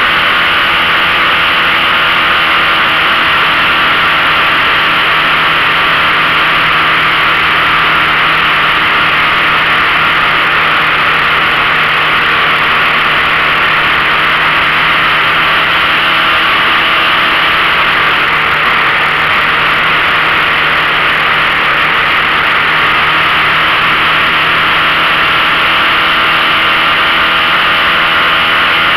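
15 hp outboard motor running at a steady speed under way, under a steady rushing noise of wind and water.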